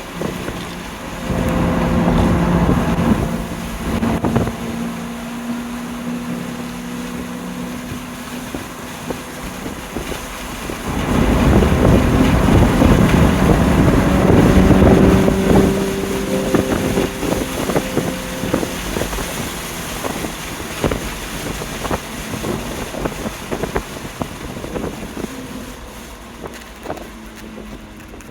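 BMW M2 Competition's twin-turbo straight-six running steadily under wind and road noise. It gets louder twice, for a couple of seconds about a second in and for several seconds from about eleven seconds in, then eases off toward the end.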